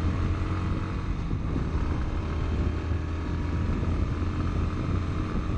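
Bajaj Pulsar NS160's 160cc single-cylinder engine running as the motorcycle is ridden on the open road under throttle for a power test, with wind and road noise over it.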